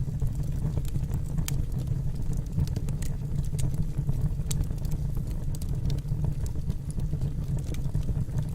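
Wood logs burning in a fireplace: a steady low rumble of the fire with scattered sharp crackles and pops from the burning wood.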